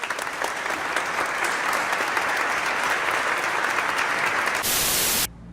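Applause: a dense patter of many hands clapping. Near the end it gives way to a short burst of hiss that cuts off suddenly.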